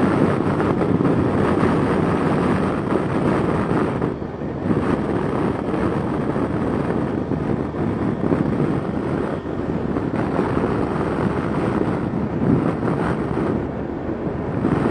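Steady wind rush on the microphone of a 2006 Yamaha FJR1300A motorcycle riding at speed on a wet road, with its engine and tyre noise underneath, dipping briefly about four seconds in.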